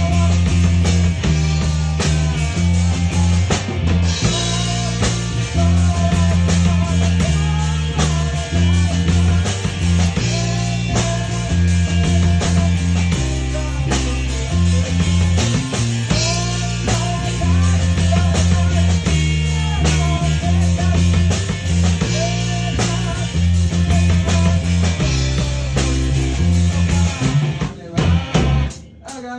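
Rock band playing an instrumental passage: drum kit, bass and guitar going steadily. Near the end the band breaks into a few short stops between hits.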